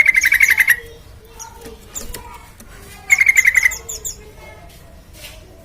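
Yellow-vented bulbul (trucukan) calling: two loud bursts of fast, repeated chattering notes, one at the start and one about three seconds in, with fainter calls between.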